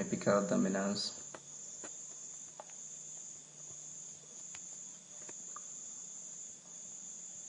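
Steady high-pitched insect chirring in the background, swelling and fading about once a second, with a few faint scattered clicks. A couple of spoken words come in the first second.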